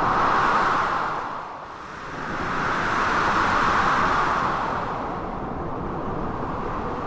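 Blizzard wind blowing in strong gusts, swelling twice and easing back, mixed with the rush of crashing sea waves.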